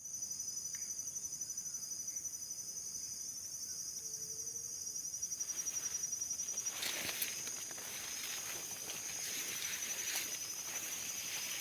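Insects trilling in a steady, fast-pulsing high tone. From about halfway through, a rustling noise and a few sharp clicks come in underneath.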